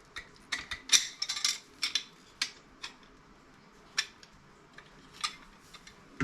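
Irregular sharp metallic clicks and clinks of hand tools and metal parts being worked while a CRT monitor is taken apart: a quick cluster in the first two and a half seconds, then scattered single ticks.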